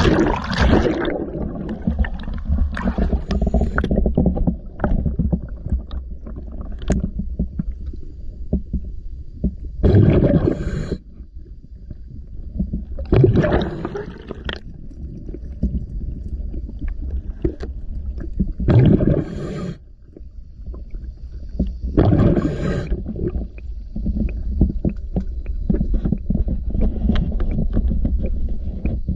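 Underwater recording of a diver's breathing regulator: bursts of exhaled bubbles gurgling past the microphone every few seconds over a steady low rumble.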